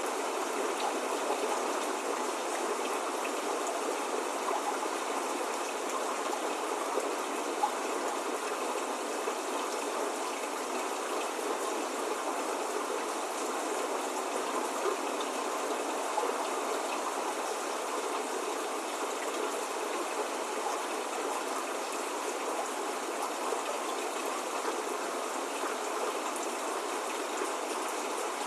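Steady spring rain falling, an even hiss of drops with a few louder individual drops now and then.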